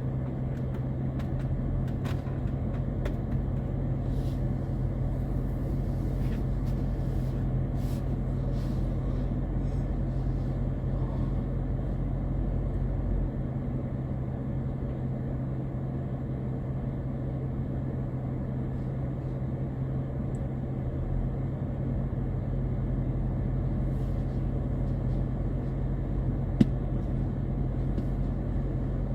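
A car being driven, with steady low engine and road rumble and a constant low hum. A single sharp click comes near the end.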